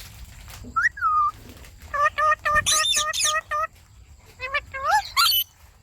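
Indian ringneck parakeets calling: a rapid run of short, evenly repeated chirps, about four a second, mixed with a few shrill rising-and-falling squawks.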